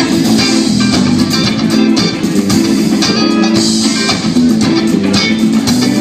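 A band playing live, led by guitar, loud and steady with no break.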